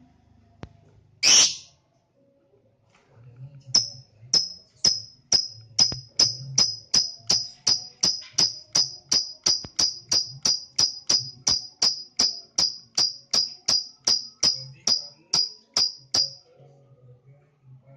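Lovebird calling: one loud shrill squawk about a second in, then a long run of sharp, evenly spaced high chirps, about two to three a second, lasting some twelve seconds before stopping. This is the 'ngekek' chirping song that lovebird lure recordings are used to trigger.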